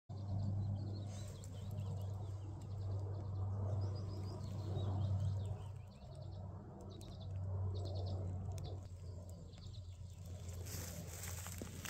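Small birds chirping now and then over a steady low hum. Near the end come crackly rustles, like dry leaves and twigs being stepped on or handled.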